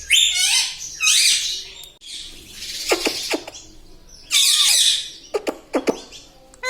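Pet parrot calling: a run of harsh, raspy screeches mixed with short whistled calls that swoop down in pitch, several in quick succession.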